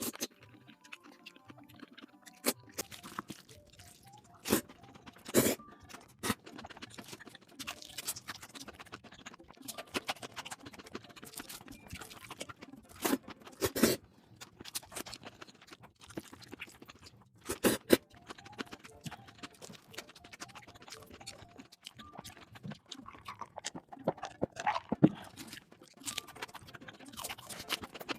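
A person eating noodles close to the microphone: chewing and slurping, with irregular sharp clicks and smacks, a few of them much louder.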